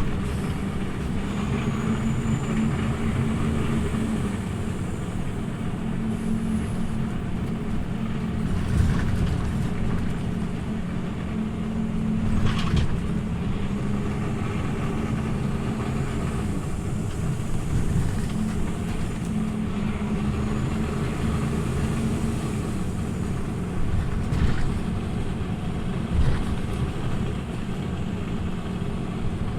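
Scania OmniLink CL94UB city bus driving, heard from inside the cabin: a steady engine drone that shifts in pitch a few times as the bus changes speed. Several short knocks and rattles come from the body.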